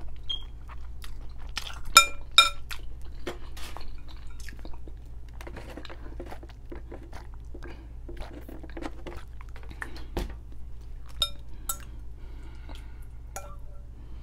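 Close-up chewing of a mouthful of noodles. A metal fork clinks against a glass bowl, with two sharp ringing clinks about two seconds in and a few more near the end.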